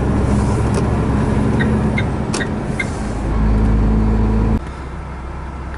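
Truck engine running steadily, with a few sharp clicks and a hiss. About four and a half seconds in, the engine sound cuts off suddenly, leaving a quieter low hum as the truck comes to a stop.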